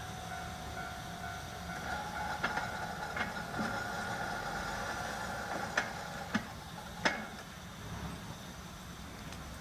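Railway cars rolling slowly over the track, their wheels clicking sharply over rail joints five or six times, with a steady high whine from the wheels.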